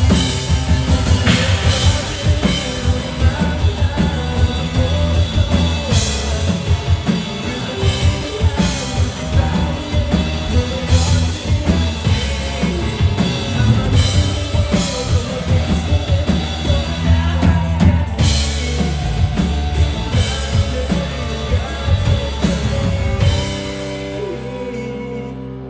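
Rock band playing live, with a pounding drum kit under the full band. About 23 seconds in the playing stops and a last chord is left ringing and fading.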